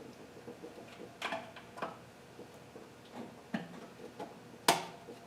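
Scattered metal clicks and knocks as the loosened upper oil pan is worked free from under the engine, about half a dozen in all, the sharpest knock about four and a half seconds in.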